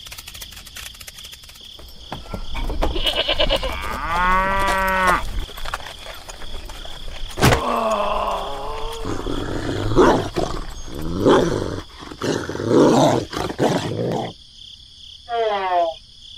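Cattle mooing, several long calls one after another, over a steady chirring of crickets. There is a short falling glide near the end.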